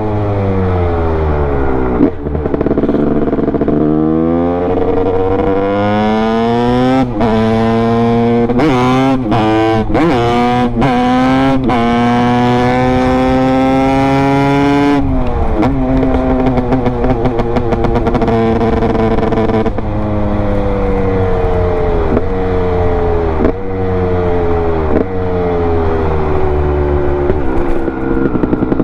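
Honda CR250 single-cylinder two-stroke engine accelerating hard through the gears. Its pitch climbs and drops at each shift, holds at high revs for a few seconds near the middle, then falls as the throttle is rolled off, before several more rising runs.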